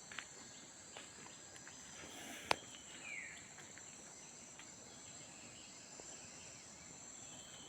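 Steady high-pitched chorus of insects, with a sharp click about two and a half seconds in and a short falling bird chirp just after.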